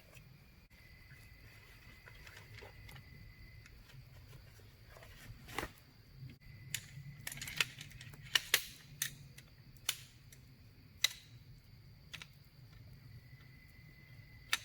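Crickets trilling steadily, with a run of a dozen or so sharp clicks and snaps from about five to eleven seconds in.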